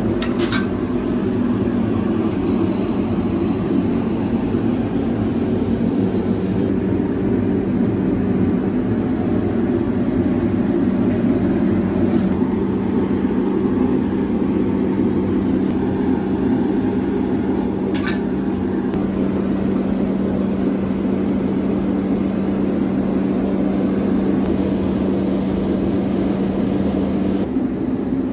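A machine running steadily with a constant low hum, with a few brief clicks.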